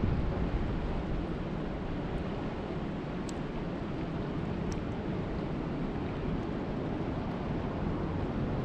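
Steady rushing noise of water and rain, heaviest in the low range, with two faint high ticks midway.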